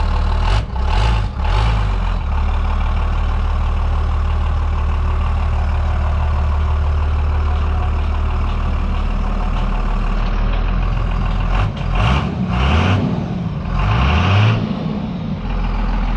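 Dodge pickup truck engine running at a steady low idle. It is revved briefly about a second in, then revs up and down a few times near the end as the truck is driven.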